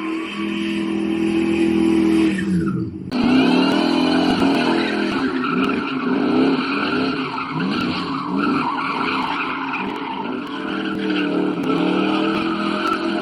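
Cars at a street takeover with tires squealing on pavement and engines revving up and down. There is a short drop about three seconds in, after which the revving rises and falls repeatedly.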